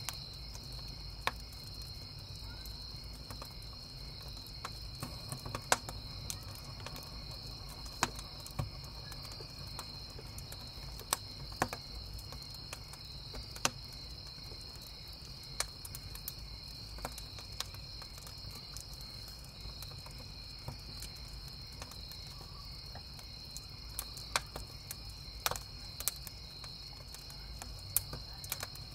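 Crickets chirping steadily in a high, even drone, with a wood campfire crackling and popping in sharp, irregular snaps every second or two.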